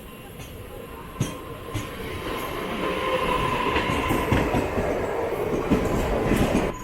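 Train wheels running over the rails and clattering across points as the train crosses from the suburban tracks onto the main line, a rumble with many knocks that grows louder from about two seconds in.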